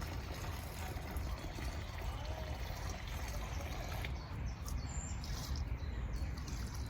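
Water pouring and trickling onto garden plants during watering, a steady splashing over a low rumble.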